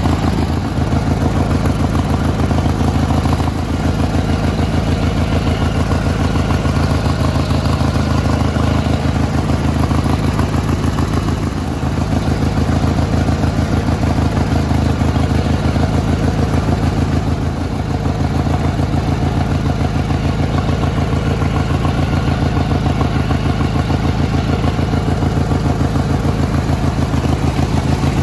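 Garden tractor engine running steadily at a constant speed, its sound dipping briefly three times.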